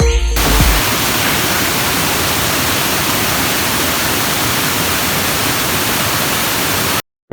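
Rain-fed waterfall rushing, a steady even noise of falling water that cuts off suddenly near the end.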